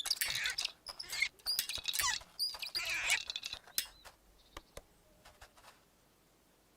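High-pitched squeaky chirps and gliding squeals, a character's squeaky babble, mixed with quick clicks. After about three and a half seconds they give way to a few faint clicks.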